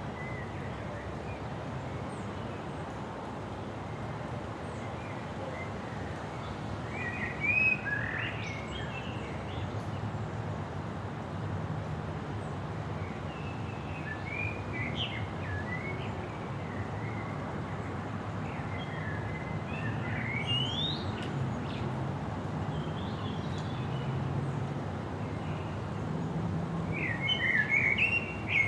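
Birds calling and chirping in short scattered bursts, four or so, loudest near the end, over a steady outdoor noise bed with a low rumble underneath.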